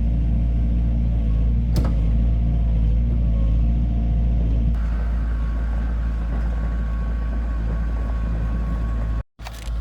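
Heavy diesel engine of an excavator or dump truck running steadily at a low pitch. A faint high whine joins about halfway through, and the sound drops out briefly near the end.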